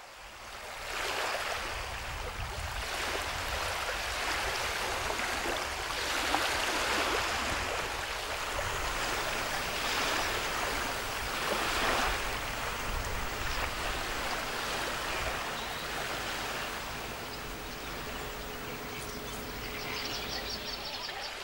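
Rushing water noise that fades in and swells and eases. A faint steady tone comes in toward the end, and a quick run of high ticking chirps follows near the end.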